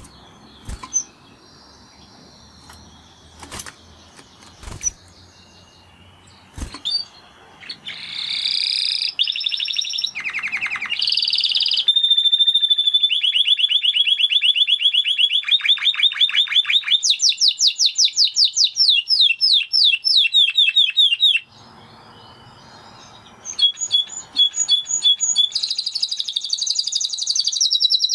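Spanish Timbrado canary singing: after a quiet start broken by a few sharp clicks, it launches into fast rolling trills of rapidly repeated high notes. It stops for a couple of seconds near three-quarters of the way in, then trills again.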